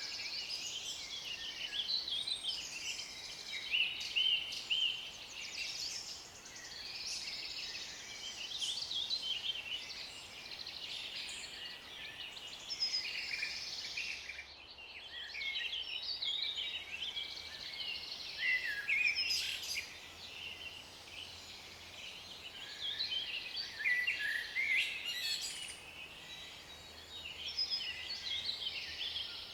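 Several birds singing at once, a dense run of overlapping chirps and trills with a short lull about halfway through.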